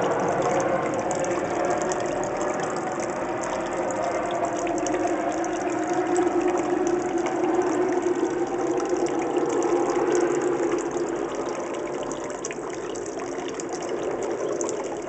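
Garden water fountain splashing steadily, under the drone of a helicopter passing overhead that grows loudest a little past the middle and then fades.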